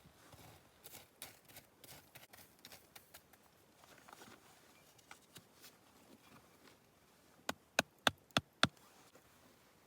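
Light handling clicks and rustles, then five sharp knocks in quick succession, about three or four a second, near the end.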